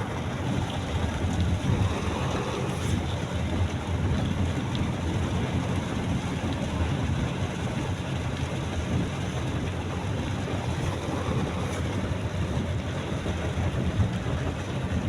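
Steady noise of a car driving through heavy rain, heard from inside the cabin: an even rush of rain and wet road over a low rumble, unbroken throughout.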